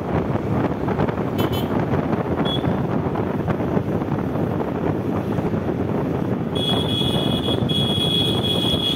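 Riding noise on a moving motorcycle: wind rushing over the microphone, with engine and road noise underneath. A high horn beeps briefly about two and a half seconds in, and a high multi-tone horn sounds for about two seconds near the end.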